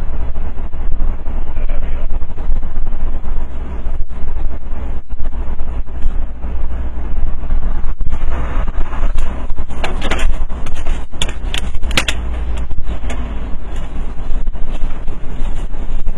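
Vehicle driving, with a heavy, steady low rumble of road and wind noise. A run of sharp knocks and clatter comes about eight to twelve seconds in.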